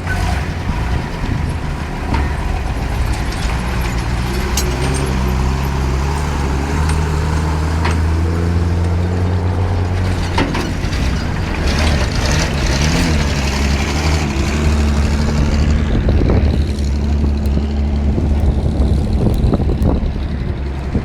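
Heavy diesel truck engine running under load, its note rising and falling, with scattered knocks and clanks.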